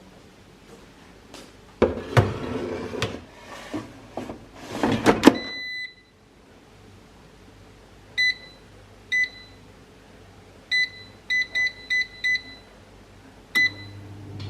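Clatter of an air fryer's basket being handled and pushed in, then a series of short, irregularly spaced electronic beeps from its control panel as the time and temperature are set. A final beep near the end, after which the air fryer's fan starts humming.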